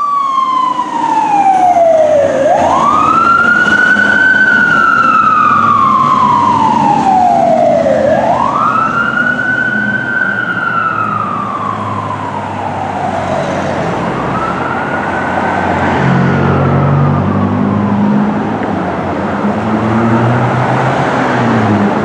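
Fire engine's siren wailing, rising quickly and falling slowly about every six seconds, over the truck's low engine rumble. The wail grows fainter in the last few seconds.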